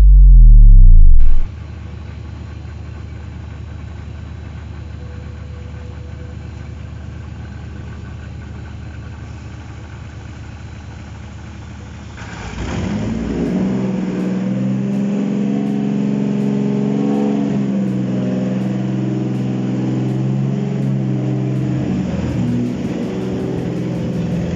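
Toyota 2JZ inline-six engine on a test stand, run up for its first start. A very loud rising sound in the first second or so, then a steadier, quieter mechanical run, and about halfway through it becomes louder with a clear, steady engine note.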